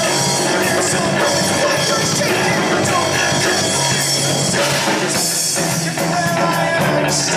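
A rock band playing live and loud, with crashing cymbals about five and seven seconds in.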